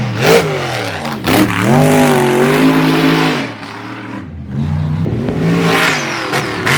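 Supercharged mega truck engine revving hard and unevenly, its pitch climbing and falling several times. The revs drop back to a lower, quieter run about halfway through, then rise again near the end.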